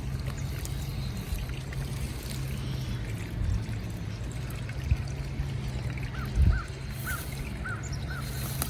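Creek water trickling steadily, with a few dull knocks. Near the end there are five short, evenly spaced chirps from an animal.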